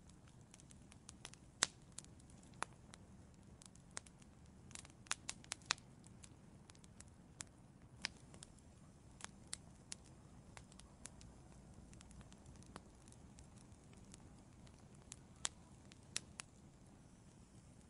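Wood fire crackling in an outdoor fireplace: irregular sharp pops and snaps, with a quick cluster about five seconds in and a few louder ones near the end, over a faint low rumble.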